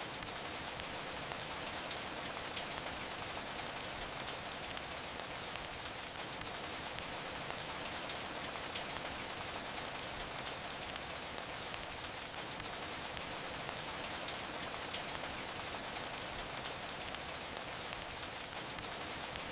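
Steady rain, with the scattered sharp pops and crackles of a wood fire in a fireplace.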